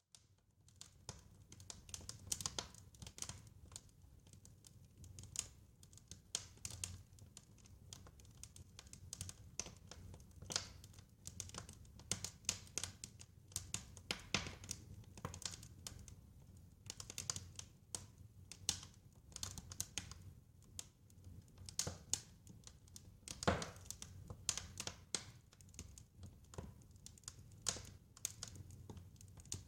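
Wood fire crackling: irregular sharp crackles and pops over a low steady rumble, with one louder pop a little after two-thirds of the way through.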